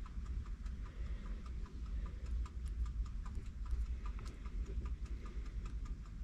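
Fast, even ticking over a low steady rumble.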